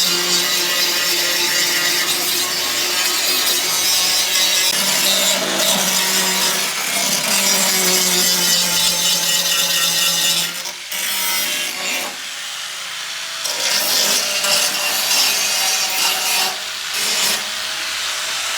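Wood being sawn, with a steady machine tone under the rasp of the cut for the first ten seconds or so; the tone then stops and lighter, broken scraping and rubbing on wood follows.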